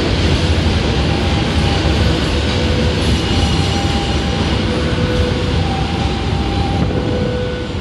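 Passenger train coaches rolling past close by: a steady, loud rumble of steel wheels on rail, with short, faint squeals from the wheels every second or so. The sound eases a little near the end as the last coach moves away.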